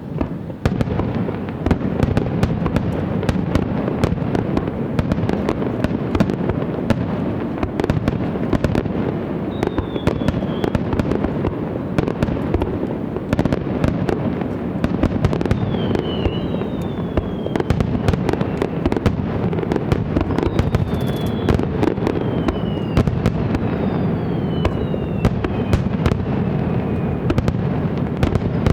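Fireworks display: a dense, continuous barrage of bursts and crackling, with several falling whistles from about ten seconds in.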